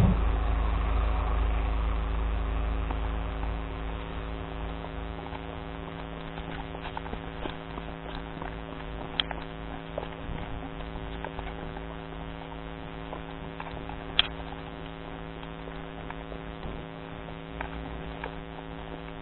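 Steady engine hum with an even, pitched drone, easing off over the first few seconds. A few faint clicks and two sharper ticks sound over it.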